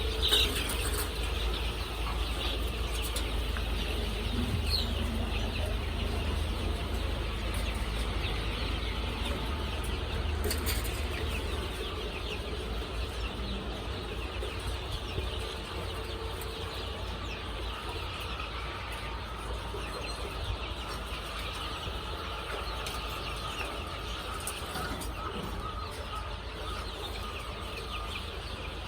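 A flock of layer chicks cheeping continuously, many short high peeps overlapping, over a steady low rumble.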